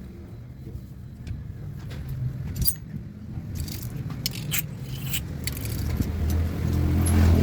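A motor vehicle engine running with a steady low hum that grows louder near the end. Sharp metallic clinks and scrapes of hand tools on metal come through in the middle.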